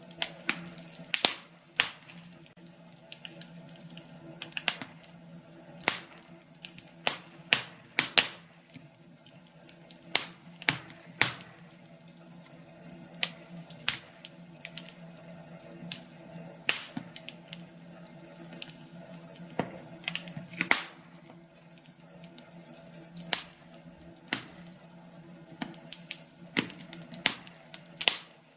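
Wood fire crackling in a fireplace: irregular sharp pops and snaps, some close together and some a few seconds apart, over a faint steady low hum.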